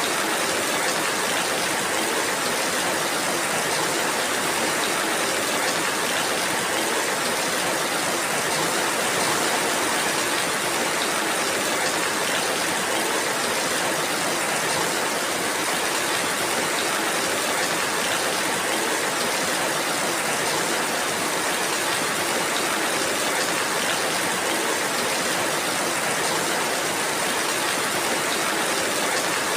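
Steady rainfall, an even hiss of rain with no individual drops standing out.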